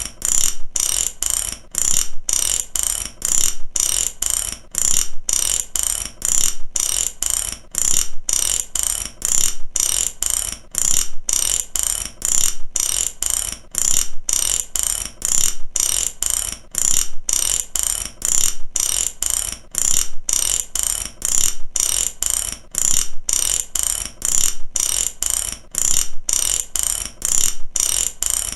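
Ratchet (matraca) clicking fast, its pawl snapping over the teeth in repeated strokes broken by short pauses about every second.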